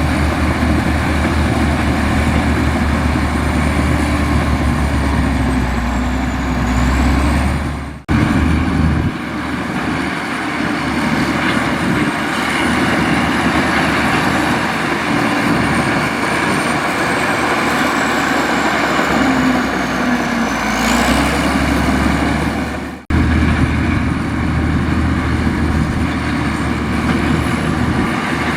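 Diesel engine of a Komatsu bulldozer running hard with a deep rumble and a thin high whine that drifts up and down in pitch. The sound breaks off abruptly twice and resumes at once.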